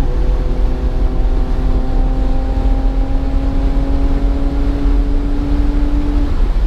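BMW's engine heard from inside the car on track, pulling hard through a gear with its pitch climbing slowly after a shift just after the start, then dropping off about six seconds in, over a heavy low rumble of road and wind noise.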